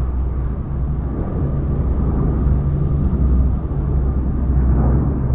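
Aircraft engines droning in a deep, steady rumble.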